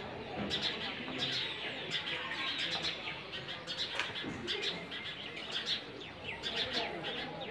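Birds chirping and twittering, many short calls overlapping steadily.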